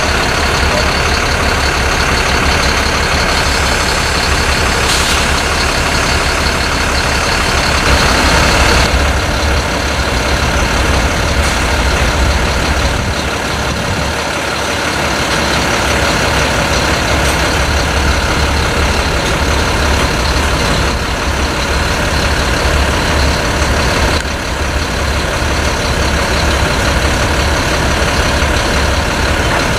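Diesel-electric freight locomotives running close by: a loud, steady engine drone with a deep rumble underneath.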